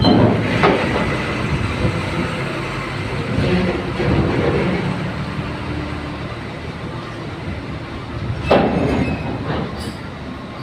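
Heavy, steady mechanical rumble from a ro-ro ferry's unloading gear at the dock, with sharp metal knocks about half a second in and twice near the end.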